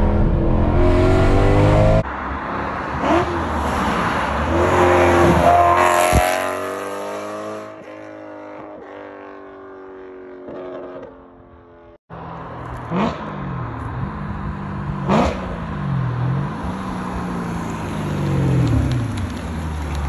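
BMW E92 M3 V8 through a valved aftermarket exhaust, revving and accelerating, its pitch climbing and dropping with gear changes. About six seconds in it passes by, the pitch falling as it fades; later it pulls hard again through several quick shifts.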